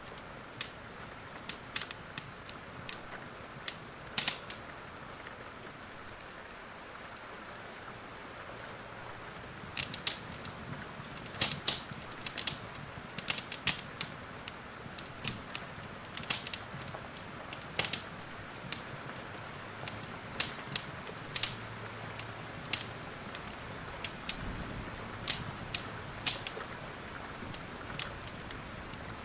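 Steady rain hiss with a wood fire crackling over it: irregular sharp pops and snaps, denser around the middle.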